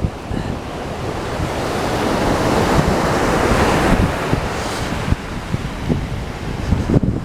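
Atlantic Ocean surf: a wave builds, peaks about three seconds in and washes out, with wind buffeting the microphone.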